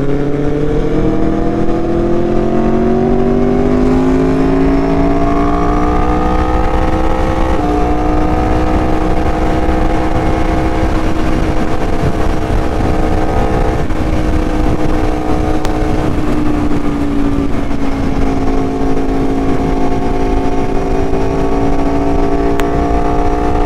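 Aprilia Tuono V4 engine pulling hard on the road. Its pitch climbs for the first seven seconds or so, steps at an upshift, then holds steady, drops back around two-thirds of the way in and picks up slightly near the end, over a rush of wind noise.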